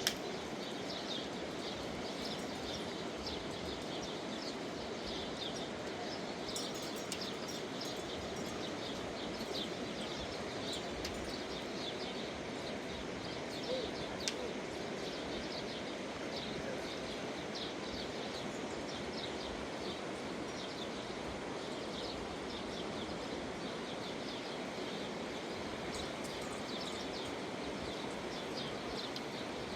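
Many small birds chirping, short repeated calls, over a steady rushing background noise.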